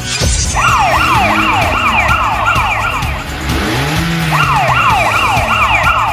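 Electronic police siren in a fast yelp, its pitch sweeping up about three times a second, in two runs with a short break near the middle.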